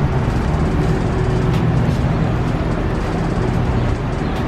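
Steady street traffic noise with a constant low engine hum.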